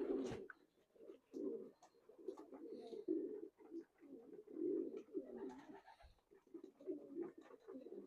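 Racing pigeons cooing in the loft: repeated low, warbling coos from several birds, overlapping with one another, with a few faint clicks and taps.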